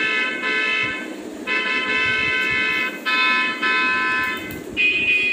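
A horn-like pitched tone sounding in several long, steady blasts with short gaps between them, jumping to a higher pitch near the end.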